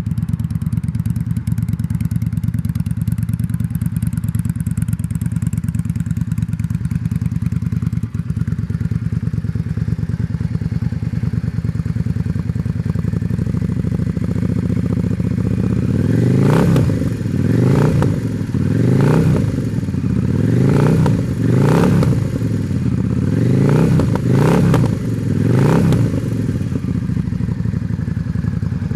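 Yamaha V-Star 650's air-cooled V-twin through aftermarket Vance & Hines pipes, idling steadily, then revved in a series of about seven quick throttle blips before settling back to idle near the end.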